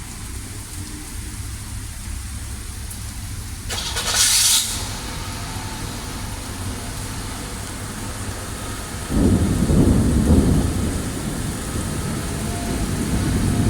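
Heavy rain falling steadily in a severe thunderstorm. There is a short loud burst about four seconds in. About nine seconds in a deep rumble of thunder starts suddenly, eases, and builds again near the end.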